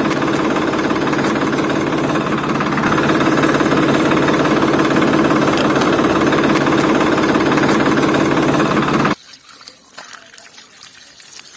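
An engine running with a fast, rough clatter, which cuts off suddenly about nine seconds in, leaving only a faint background.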